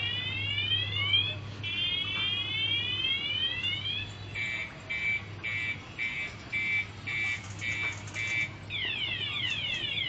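Electronic sound effects from a kiddie airplane ride: rapid rising siren-like sweeps, then a steady beeping about twice a second from about four seconds in, switching near the end to fast falling sweeps, over a steady low hum.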